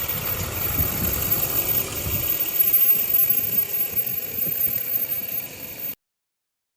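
LBZ Duramax 6.6 L V8 turbodiesel running on its stock exhaust, with the high whine of a Stainless Diesel 9-blade turbo over the engine. The sound cuts off suddenly near the end.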